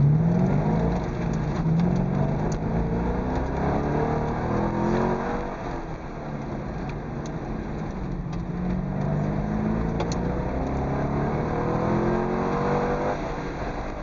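Corvette V8 engine heard from inside the cabin, launching hard off the start line and then revving up and easing off again and again as the car is driven flat out through autocross cone sections.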